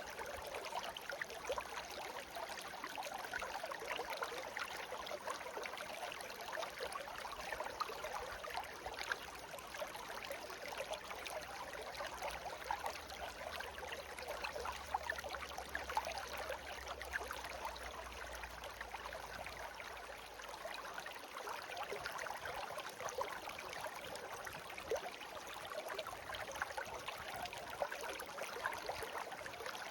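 Shallow stream babbling steadily, a continuous burble of small splashes and trickles.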